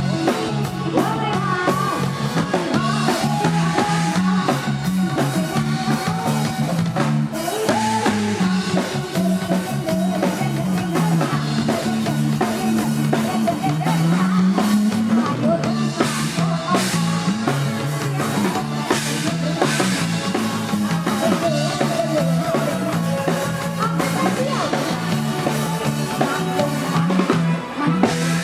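Live band music with a drum kit, bass and electric guitar, played loud through a PA.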